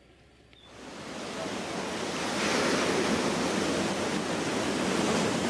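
Steady rushing of ocean surf that starts less than a second in, swells over about two seconds and then holds loud.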